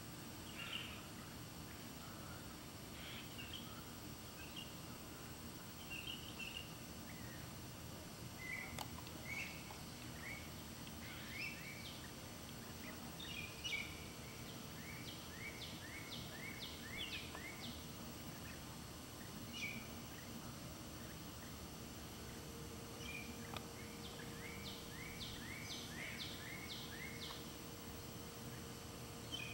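Birds calling over a steady outdoor background hum: short high chirps scattered throughout, and twice a run of six or seven quick repeated whistled notes, about two a second.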